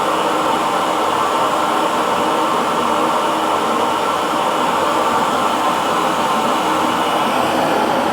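Hair dryer running steadily: a constant whooshing blower noise with a faint motor hum, unchanging throughout.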